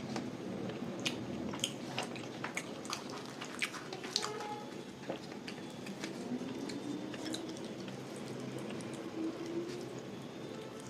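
Close-miked chewing of a meal of luchi and vegetable curry: wet smacking and clicking mouth sounds, busiest in the first half.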